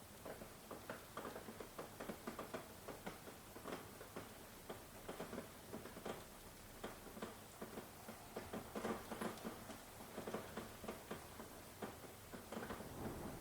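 Rain, falling in irregular drops that patter and tick on a surface close by, several a second, over a light hiss.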